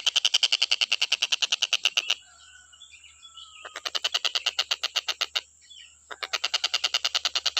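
Tengkek buto kingfisher giving a fast rattling trill of even notes, about eleven a second, in three bursts with short pauses between them. Softer chirps and a brief falling whistle come through in the pauses.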